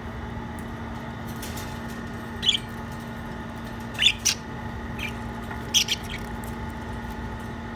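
Lovebirds giving a few short, sharp, high-pitched chirps in three clusters, about two and a half, four and six seconds in, over a steady low hum.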